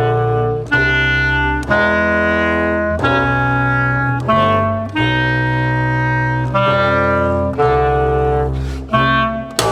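Clarinet and double bass playing together in a run of sustained notes, each held about a second, with low and high pitches changing at the same moments.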